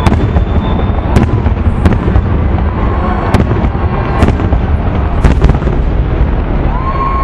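Aerial fireworks display in rapid succession: sharp bangs about once or twice a second over a continuous rolling rumble of shell bursts, with a few brief whistling tones.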